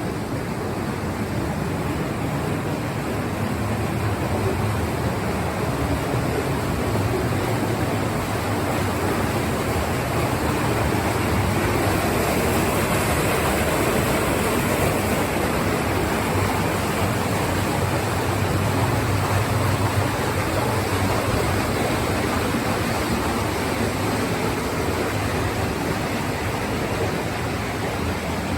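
Tour boat under way on the river: a steady rush of engine drone, water and wind noise with a low rumble beneath.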